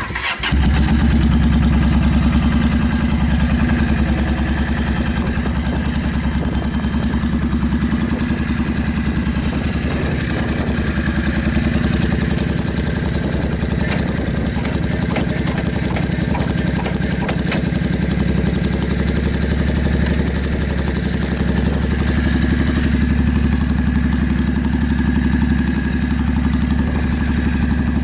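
Yamaha Drag Star 400's V-twin, breathing through short trumpet dual exhausts, fires up and settles straight into a loud, steady idle with an even low beat. The seller presents the engine as running without abnormal noise.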